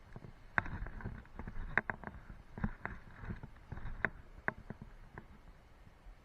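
A series of irregular sharp clicks and knocks with a few dull thumps, stopping about five seconds in.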